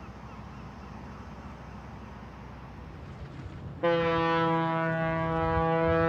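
Low background rumble, then about four seconds in a ship's horn starts sounding one long, steady blast.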